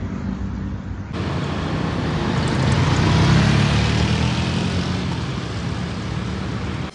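Road traffic: a motor vehicle's engine and tyre noise swells to a peak about three seconds in and then fades. The sound cuts off abruptly near the end.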